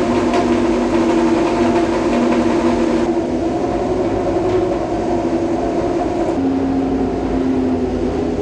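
Historic Formula One car's racing engine running at steady high revs, its note stepping suddenly about three seconds in and again about six and a half seconds in.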